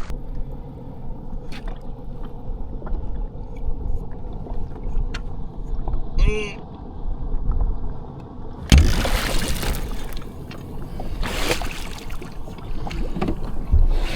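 A boat motor running steadily on the water, with two loud rushing bursts about nine and eleven seconds in and a short high-pitched squeak around six seconds.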